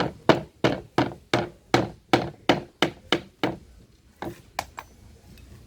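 A hammer striking wood in a steady run of about a dozen blows, roughly three a second, then two more blows after a short pause.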